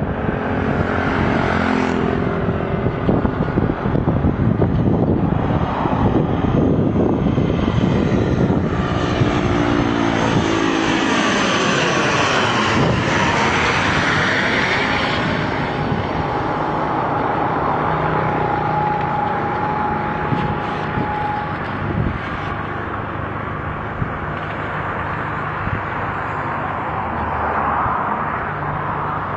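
Airplane flying overhead: a loud, steady engine roar whose pitch pattern sweeps as it passes, easing off slightly in the second half.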